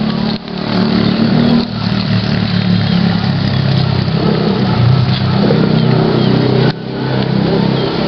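An engine running steadily, its pitch wavering slightly, with a few abrupt brief drops in level.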